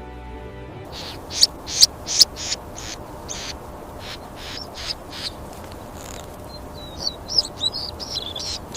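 Small birds chirping: a run of about a dozen short, high chirps, then quicker twittering with sweeping notes near the end, over a faint steady hiss.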